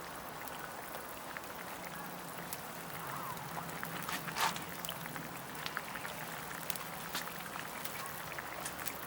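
Soup curry cooking in a pot over a campfire: a steady low simmer with scattered small crackles and ticks, and one louder knock about four and a half seconds in.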